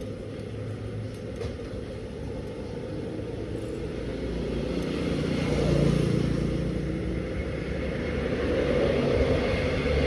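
16 kg washing machine running, its drum turning with a low mechanical rumble that swells louder about halfway through and again near the end.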